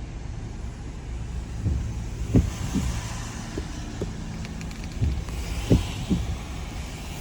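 Car cabin noise while driving: a steady low rumble of engine and tyres, with a few short knocks scattered through.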